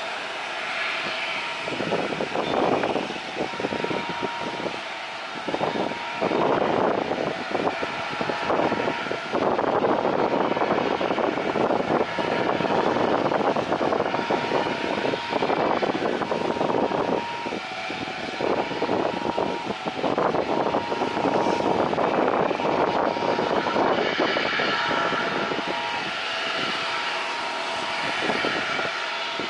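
Jet airliner engines running: a loud rumble with a few steady whining tones, swelling and dipping in level.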